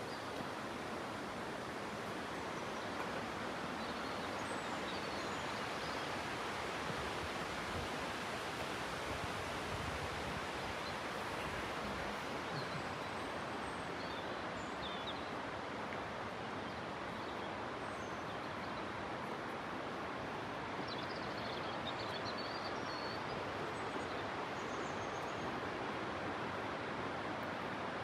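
Steady rushing of running water, an even unbroken hiss, with faint high bird chirps now and then.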